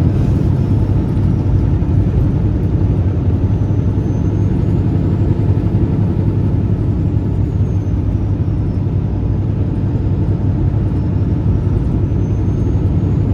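Peterbilt semi truck driving down the road with a loaded lowboy trailer: steady low diesel engine and road rumble.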